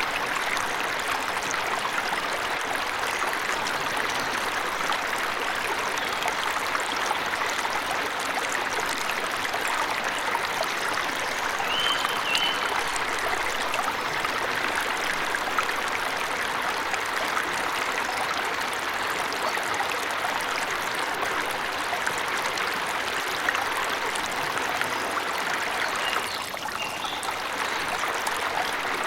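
Steady rush of a forest waterfall. A bird gives a few short chirps about twelve seconds in and again near the end.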